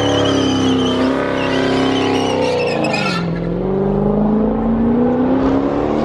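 Car engine revving hard, its pitch dipping and then climbing again, with a high wavering squeal over it for the first three seconds that is typical of tyres spinning in a burnout. The sound changes abruptly about three seconds in.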